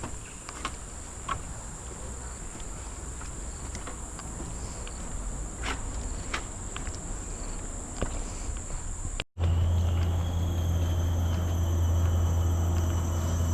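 Steady high-pitched insect chorus in tropical forest, with a few faint clicks. About nine seconds in, the sound cuts abruptly to a louder scene: a steady low hum under several insects holding steady high tones.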